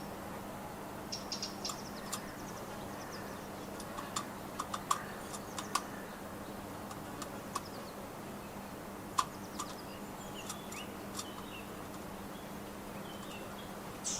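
Small garden birds giving short, high chirps, mixed with scattered sharp clicks and taps, most of them through the middle.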